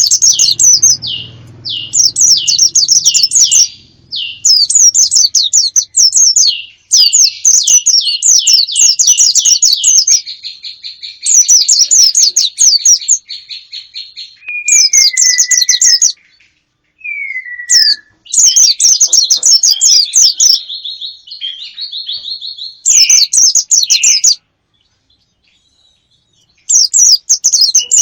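Small songbird singing loud bursts of fast, high, down-sweeping chirps, each burst lasting a second or two with short pauses between, and two lower sliding whistles in the middle. This is bird song used as a lure call to attract wild birds.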